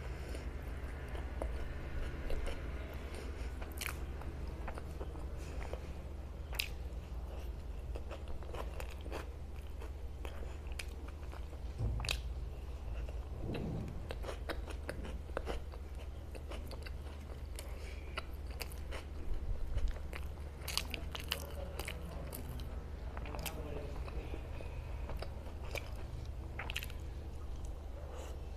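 Close-up mouth sounds of eating pav bhaji: soft bread rolls dipped in vegetable curry being bitten and chewed, with many short wet clicks and smacks, over a steady low hum.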